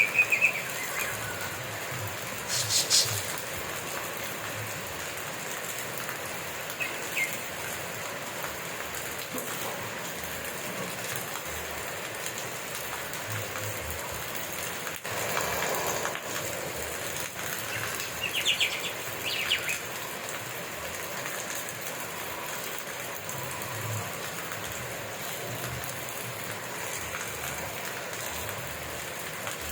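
Steady rain falling, with a few short bird chirps over it, the clearest about three seconds in and again near nineteen seconds.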